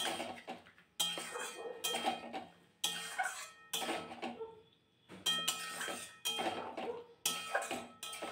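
A metal utensil stirring chicken in a kadai, striking and scraping the pan about once a second, each stroke ringing briefly. This is the chicken being fried down in its masala.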